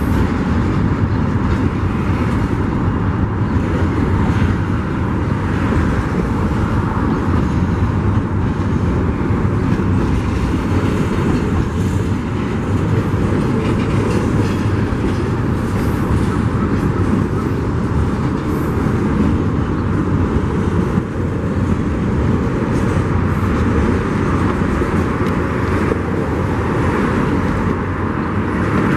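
Union Pacific freight train rolling past, its cars giving a steady, loud rumble of wheels on rail.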